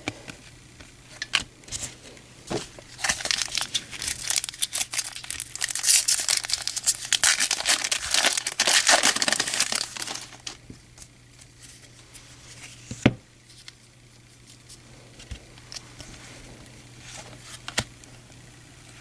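The wrapper of a baseball card pack being torn open and crinkled for several seconds, followed by a few light clicks as the cards are handled.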